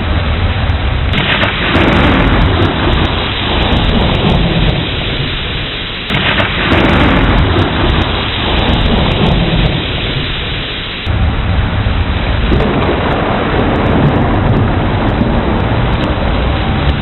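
Heavy rain with thunder: three sudden thunderclaps about five seconds apart, each fading into a low rumble under the steady hiss of the rain.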